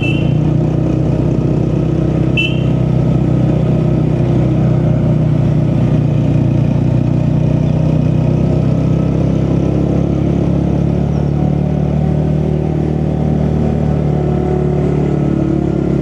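A vehicle's engine running steadily while it cruises at a constant speed, with road noise underneath. A short high-pitched beep sounds at the very start and again about two and a half seconds in.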